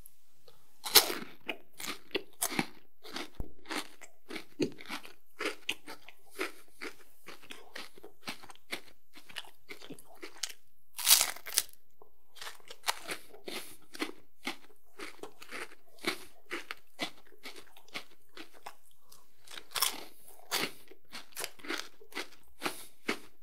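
Close-miked crunching and chewing of a chocolate-coated biscuit, many short crisp crunches as it is chewed. The loudest bites come about a second in, again around the middle, and near the end.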